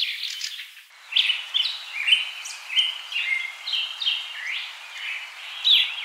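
Birdsong: a quick trill of repeated notes at the start, then a string of short, clear whistled notes, several sweeping upward.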